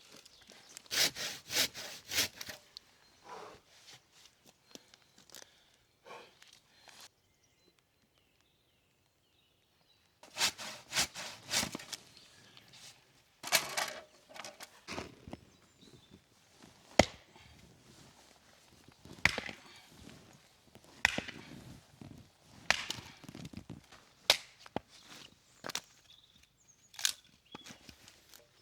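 Firewood being chopped and split: sharp wooden strikes and splintering cracks in irregular clusters, with a pause of a few seconds about a quarter of the way through.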